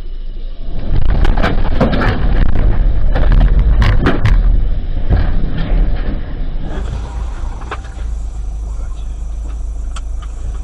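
Car road noise as picked up by a dashcam: a deep steady rumble with a dense run of knocks, clatter and scraping in the first half, then quieter, steadier running.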